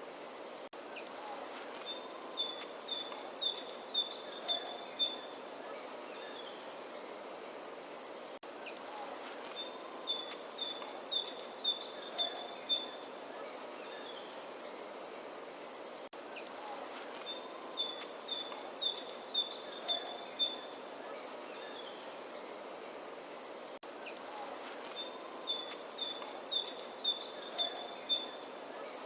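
A songbird singing the same phrase four times, about every eight seconds: a high falling note followed by a quick string of short, even notes, over a faint steady background hiss.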